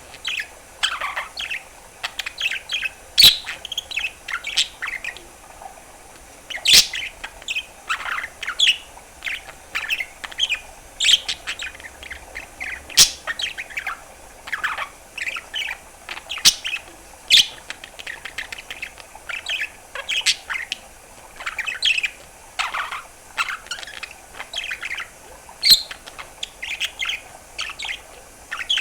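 Budgerigar chattering: a continuous stream of short chirps and warbles, several a second, mixed with sharp clicks.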